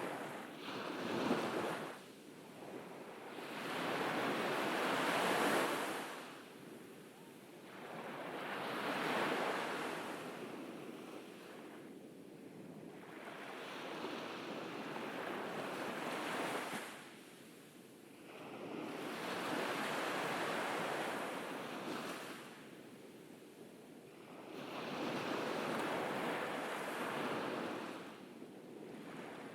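Ocean waves breaking and washing up a beach, each surge swelling and fading away every four to six seconds.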